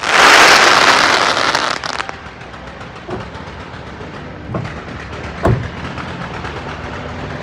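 Aerial fireworks: a loud, dense crackling burst for about two seconds at the start, then a few scattered booms about three, four and a half and five and a half seconds in.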